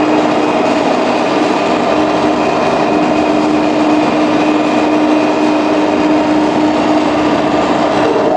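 A tractor engine running steadily, with a constant drone and a held hum.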